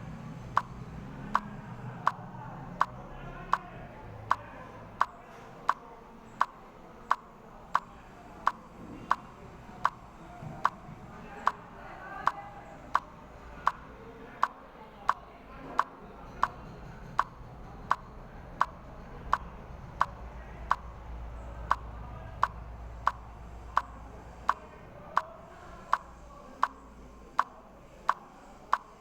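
Steady rhythmic ticking, a sharp click about every three quarters of a second, over a faint low hum.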